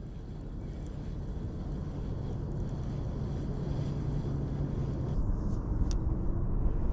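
A distant engine drone: a steady low hum under a rumble that grows gradually louder.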